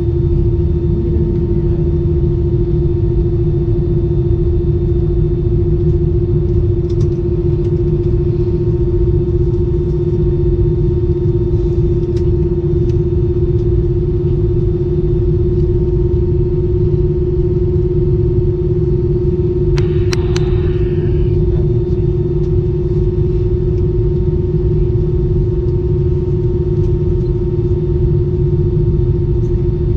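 Steady low rumble of a vehicle with a constant droning hum, unchanging throughout, with a brief clatter of clicks about twenty seconds in.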